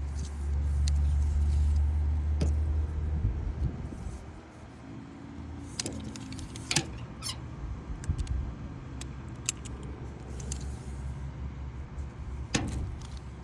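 A low rumble for the first few seconds, then light clicks and small rattles from a wiper blade's metal frame and rubber insert being handled and fitted.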